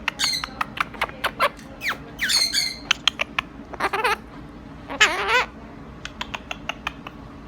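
Pet bird chattering in rapid short clicks and chirps, with two brief harsh squawks that bend in pitch, about two seconds in and about five seconds in.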